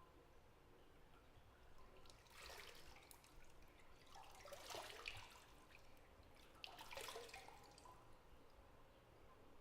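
Soft water splashes and trickles in a filled bathtub, three brief quiet bursts about two seconds apart, as of bathwater being stirred.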